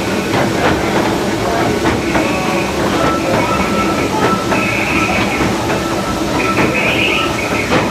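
Cab of the 1925 Baldwin steam locomotive Ernest S. Marsh under way: steady running noise with the clatter and knocking of wheels over rail joints. From about two seconds in, high steady tones come and go over it.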